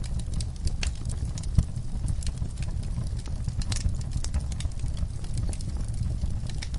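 Log fire burning in a fireplace: irregular sharp crackles and pops over a steady low rumble of the flames, with one louder pop about a second and a half in.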